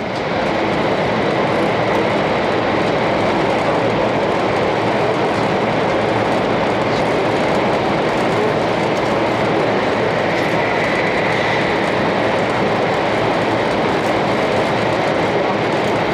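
Steady running noise inside a 500 series Shinkansen passenger car under way, a dense rushing rumble of wheels, track and air that swells a little just after the start and then holds even.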